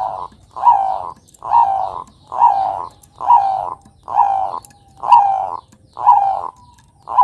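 Bangkok-type zebra dove (perkutut) cooing, a steady run of short repeated notes at about one a second.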